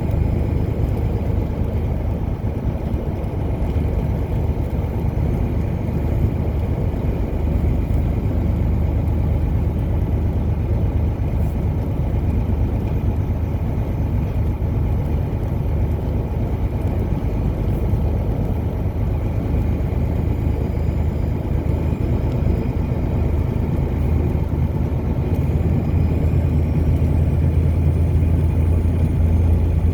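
A car driving at speed: a steady low rumble of engine and tyre noise, with the deepest hum swelling a little near the end.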